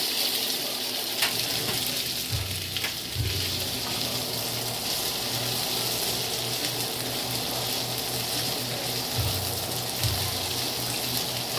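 Chicken pieces sizzling steadily in hot oil in a wok, turned now and then with a plastic slotted spatula that gives a few faint scrapes and clicks.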